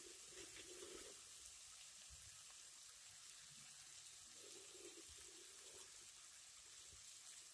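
Near silence: a faint, steady sizzle of onions, tomatoes and green chillies frying in a pan.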